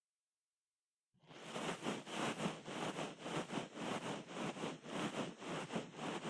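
Complete silence for about a second, then an ear pick scraping and scratching in an ear in an even rhythm of about two strokes a second.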